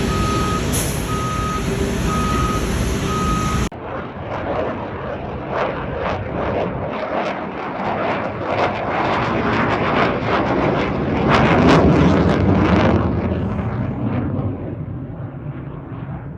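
Four steady electronic beeps over a loud roar, cut off abruptly about four seconds in. Then an F-16 fighter jet's engine roars past with a crackling rattle, swelling to its loudest about three-quarters of the way through and then fading.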